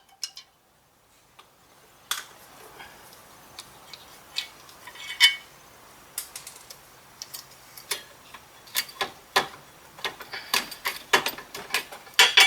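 Irregular sharp metallic clicks and clinks from hand tools and parts being handled while a car transmission and clutch are taken apart. The clicks start about two seconds in and come thicker over the last few seconds.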